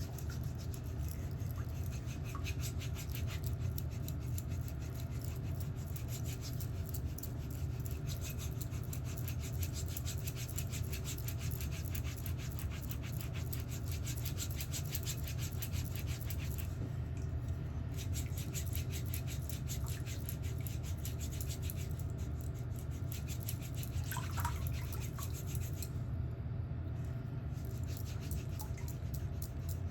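Fast, continuous rasping and rubbing strokes on a toenail during cleaning, over a steady low hum.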